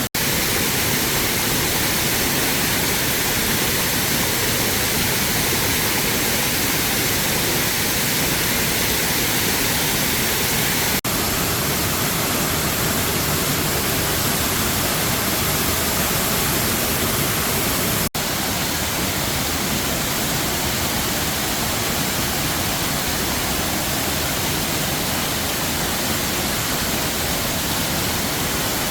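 Waterfall rushing steadily: a loud, even roar of falling water, broken by two momentary dropouts partway through.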